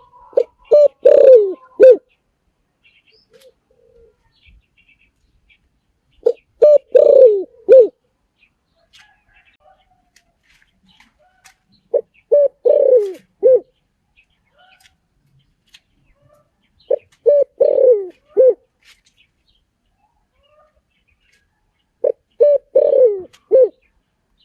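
Spotted dove calling: five repeated coo phrases about five seconds apart, each a quick run of four or five low coos.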